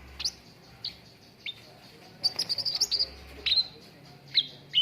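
Cucak ranting songbird calling in short, sharp chirps, mostly quick downward-sweeping notes, with a rapid run of notes about two seconds in.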